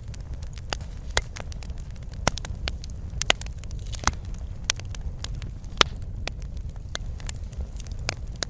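Wood fire crackling in a fireplace: irregular sharp snaps and pops, a few louder than the rest, over a steady low rumble of burning.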